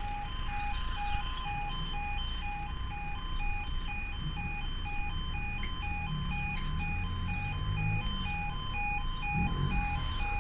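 Level crossing warning alarm: a two-tone electronic alarm alternating steadily between two pitches, several changes a second. A low rumble builds under it in the second half.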